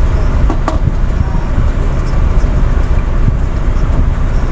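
Steady low rumble of an idling semi-truck diesel engine, with one sharp click less than a second in.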